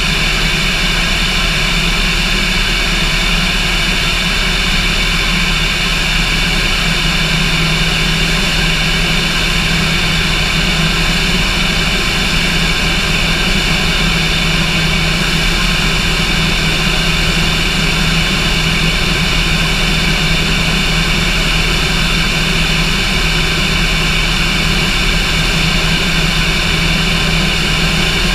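Cessna light aircraft's piston engine and propeller running at a steady, unchanging drone throughout, with no change in pitch or loudness.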